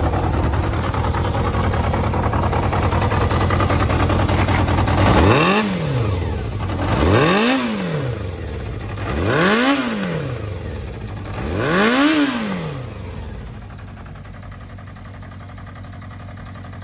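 Yamaha XJR400's inline-four engine idling, then revved in four throttle blips about two seconds apart, each rising and falling back, before settling to a quieter idle.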